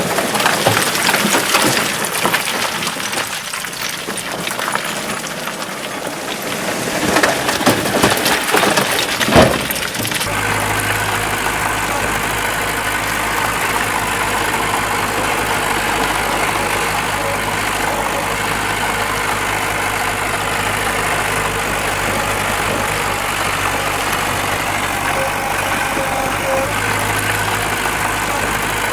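A rough, crackling clatter for about the first ten seconds, then an abrupt change to a heavy machine's diesel engine running steadily at low speed.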